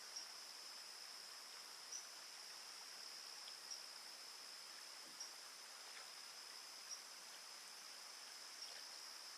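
A steady, high-pitched insect chorus, with a slightly louder pulse on the same note roughly every second and a half to two seconds.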